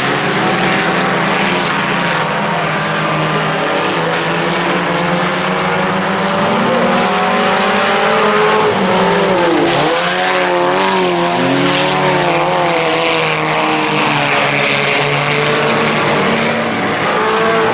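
A field of IMCA Sport Compact four-cylinder race cars running at speed, several engines overlapping. Their pitch falls and climbs as the cars lift and accelerate through the corners, most clearly about halfway through.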